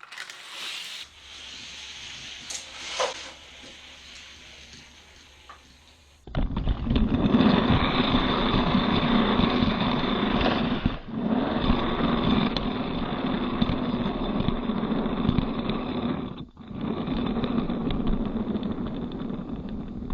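A few light clicks, then about six seconds in a loud, steady engine-like motor noise starts and keeps running, dropping out briefly twice.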